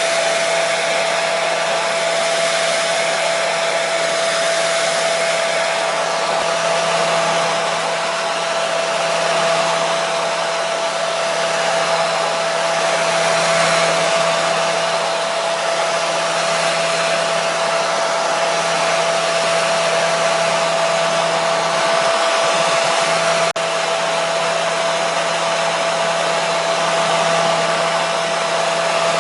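Hair dryer running continuously: an even rush of blown air with a steady motor whine and low hum. There is a momentary dropout about 23 seconds in.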